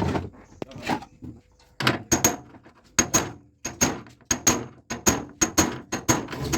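Hammer blows on the car's sheet-metal body panel as dents are beaten out, an irregular run of sharp strikes at about two to three a second, many with a brief high metallic ring.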